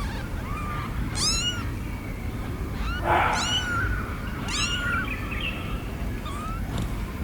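Kitten mewing: a run of about six short, high-pitched mews, each rising and falling in pitch, the loudest and roughest about three seconds in.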